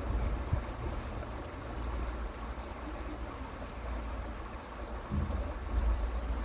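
Creek water running steadily, with an uneven low rumble underneath that swells near the end.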